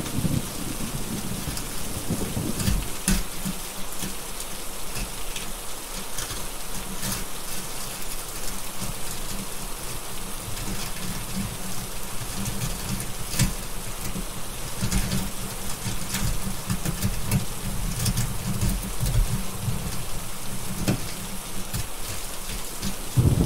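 Steady heavy rain hissing, with a low rolling thunder rumble that swells and fades, and scattered sharp crackles and pops of a wood fire.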